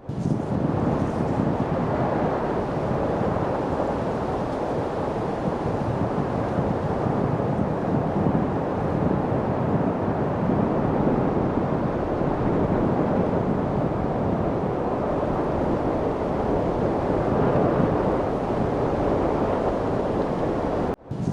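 Steady rushing wind noise, swelling and easing slightly, with a momentary dropout at the start and again near the end.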